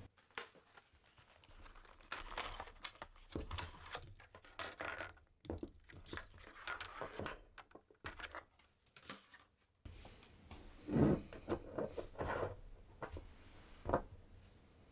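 Handling sounds: irregular rustling and crinkling with scattered clicks and light knocks.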